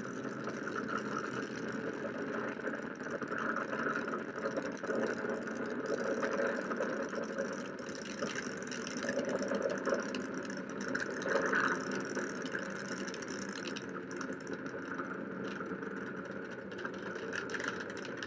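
A SpaceX Falcon 9 rocket's first-stage engines firing during ascent: a steady rushing noise that swells slightly now and then, with no break.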